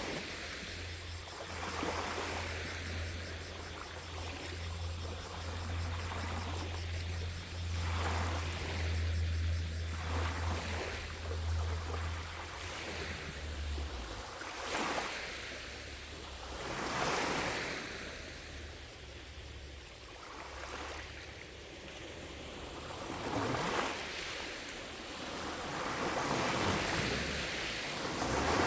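Small lake waves lapping against the shore, each wash swelling and fading every second or two. A steady low hum sits underneath and stops about halfway through.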